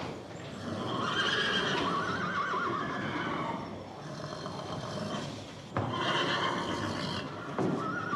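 An animal calling twice: a long wavering call about a second in, then a second one near the six-second mark.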